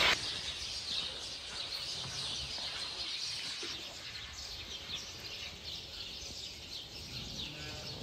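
Small birds chirping and twittering, many quick calls overlapping, over a faint outdoor background hum.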